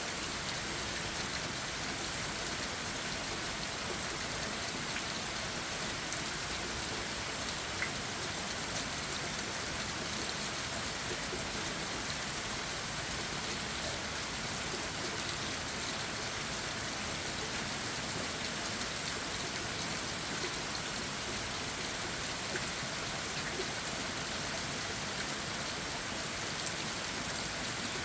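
Steady rain falling on leaves and the forest floor, an even patter with a few separate drops ticking here and there.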